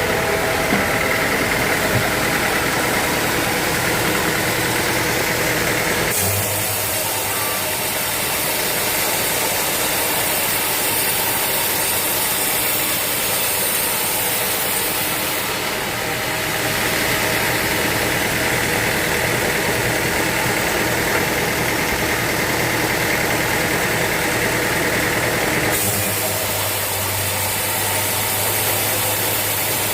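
Sawmill machinery running steadily, a loud mechanical drone. Its tone changes abruptly about 6, 16 and 26 seconds in, switching between a higher, whining sound and a lower hum with more hiss.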